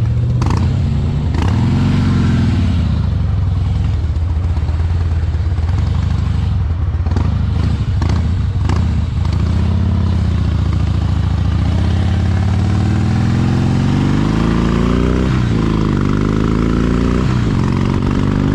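Harley-Davidson motorcycle's V-twin engine running at low revs, then pulling up in pitch as it accelerates from about two-thirds of the way in.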